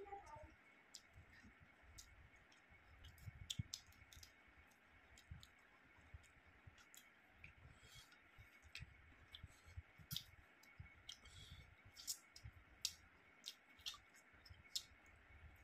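Faint, irregular wet clicks and smacks of a person chewing a mouthful of curried meat and rice, eaten by hand, with soft low thumps between them.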